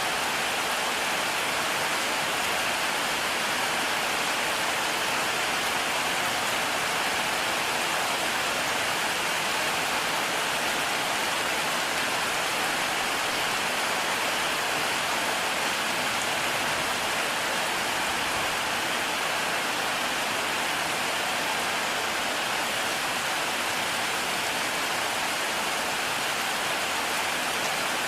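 Heavy rain falling steadily in a dense, even hiss that neither swells nor breaks.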